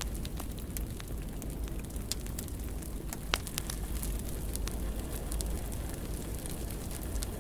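Fire crackling in a fireplace: a steady low rumble of flames with many small sharp pops, and one louder pop about three seconds in.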